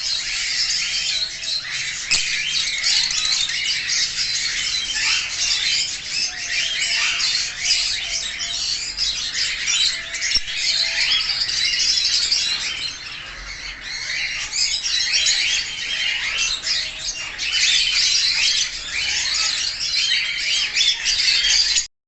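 A flock of budgerigars chattering and chirping, many short overlapping calls with no pause, cutting off suddenly near the end.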